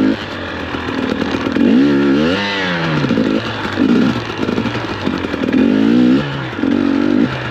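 2021 KTM 250 XC-W two-stroke dirt bike engine revving up and down about five times as the bike is ridden through snow.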